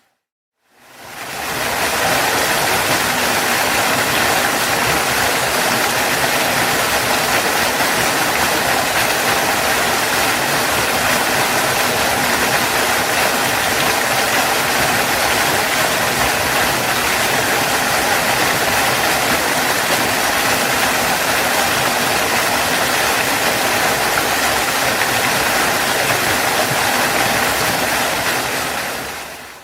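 Waterfall rushing in a steady, dense roar of falling water. It fades up from silence at the start and fades away near the end.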